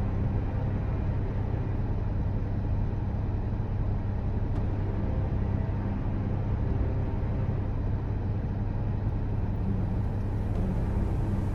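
Toyota Aqua's 1.5-litre three-cylinder petrol engine running steadily at idle after a cold start in freezing weather, a constant low hum.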